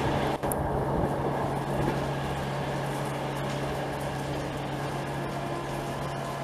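Passenger train running away at speed through heavy rain: a steady rumble with a low hum, under the hiss of rain and spray.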